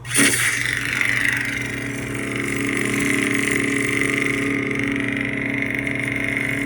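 Custom lightsaber sound board playing the 'Pitch Black' dark-side sound font: a steady, buzzing hum that swells gently as the saber is moved.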